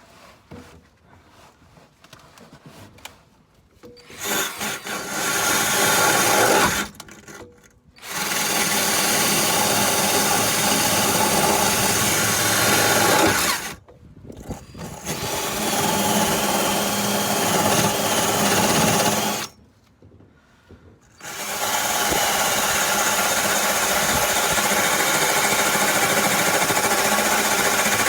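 Power drill running in four long bursts with short pauses between them, scouring surface rust off the car's underside. The first few seconds hold only faint clicks and handling noise.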